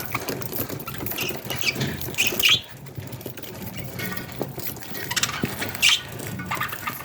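Budgerigars giving short scratchy chirps and squeaks over a run of small ticks and scratching.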